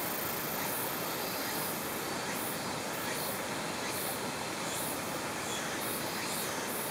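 Mountain stream water running over rocks, a steady rushing noise.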